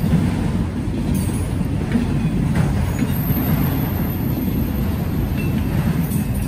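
A freight train rolling past, a steady low rumble of railcars on the track.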